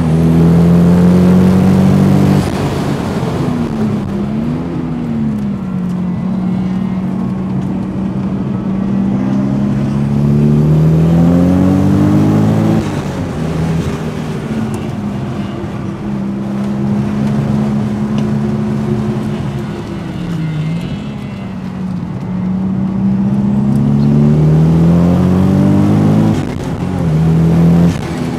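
Toyota Supra Mk4's twin-turbo straight-six heard from inside the cabin while lapping a circuit, pulling up through the revs several times with sudden drops in pitch at the gear changes and lifts off the throttle.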